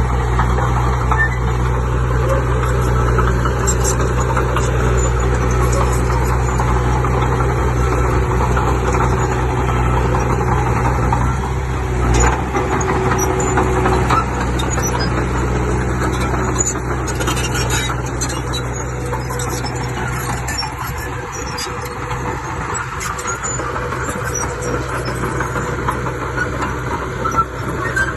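Diesel engine of heavy earthmoving machinery running steadily, with a single knock a little under halfway through; the engine sound drops away about two-thirds of the way through.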